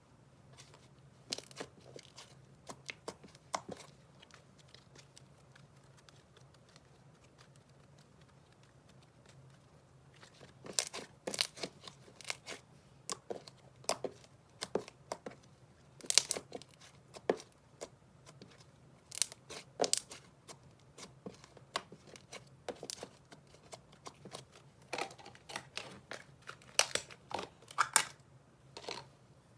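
Slime being squished and stretched by hand, giving irregular sticky pops and crackles: a few at first, a lull, then many from about ten seconds in.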